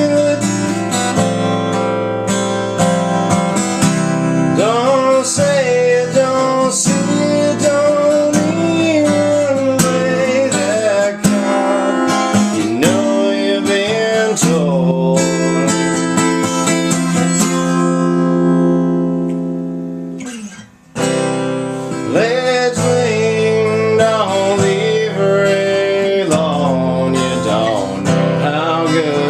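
Song music on strummed acoustic guitar with a gliding melody line over it. About two-thirds of the way through, a chord is held and fades away, there is a brief break, and then the strumming starts again.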